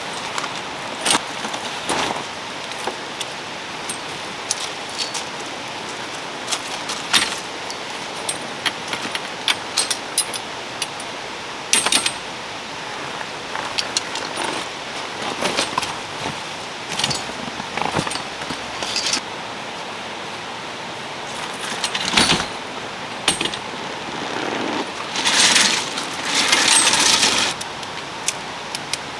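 Scattered clinks and knocks of tent gear being handled while a tent is pitched, with a longer rustle near the end, over a steady hiss of rain.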